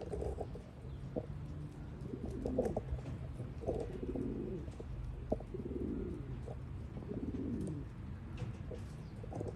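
Domestic pigeons cooing, a string of low coos following one another about a second apart.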